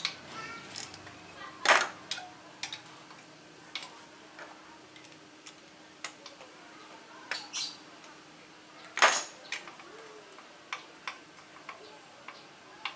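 Metal tools and engine parts clinking and knocking as they are handled: scattered light clicks, with two louder clanks about two seconds in and about nine seconds in.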